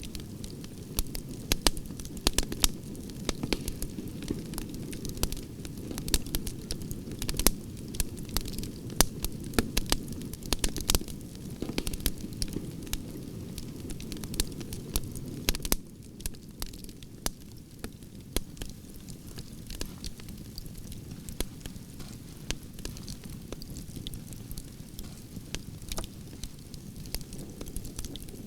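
Campfire of burning branches crackling: frequent sharp pops and snaps over a steady low rush of flame. The fire gets a little quieter, with fewer pops, about halfway through.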